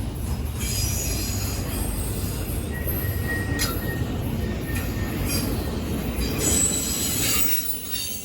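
Train rolling past, its wheels squealing in high-pitched tones that come and go over a steady low rumble.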